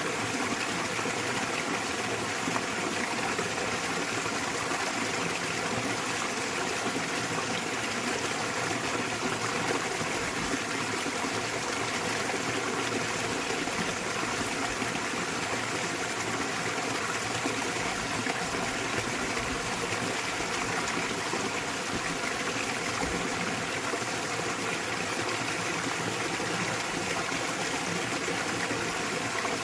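Small waterfall splashing into a mountain stream, a steady rushing and trickling of water with no change.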